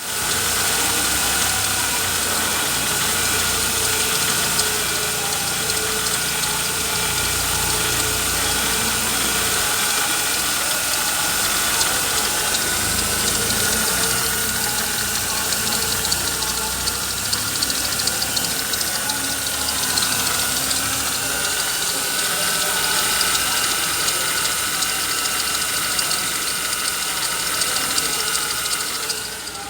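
Holden Commodore 3.8-litre V6 engine running steadily at an even speed, idling.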